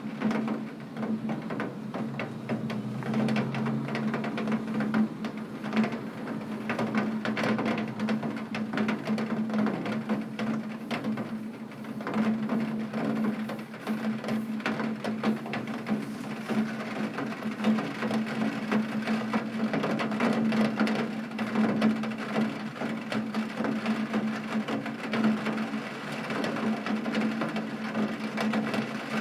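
Heavy rain pattering against a window pane: a dense, steady stream of tiny drop taps, with a steady low hum underneath.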